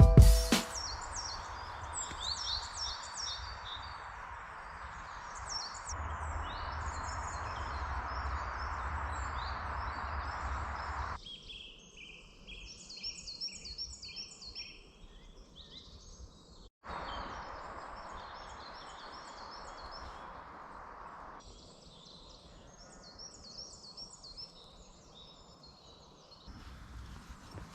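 Wild birds singing and chirping in woodland, many short high phrases repeated over and over, over a steady background hiss that drops out and comes back abruptly several times.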